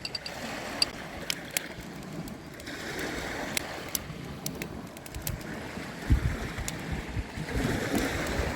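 Sea waves washing onto the shore, swelling twice, with scattered sharp clicks and a dull thump about six seconds in.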